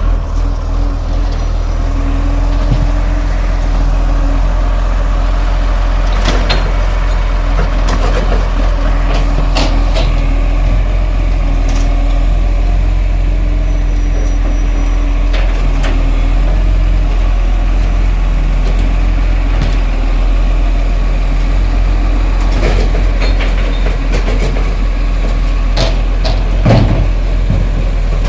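Garbage truck's engine running steadily and loud, with a faint steady hum above it. Sharp metallic clanks and knocks come every few seconds, typical of bins being picked up and emptied.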